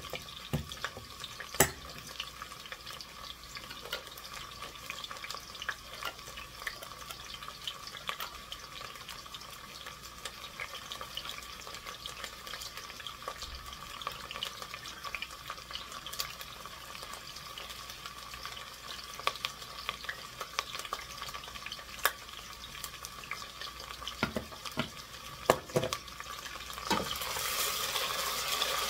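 Celery frying in olive oil in a stainless stockpot, sizzling steadily, while a handheld can opener is cranked around a can with irregular clicks and knocks. About two seconds before the end the sizzle grows louder as the pot is stirred with a wooden spoon.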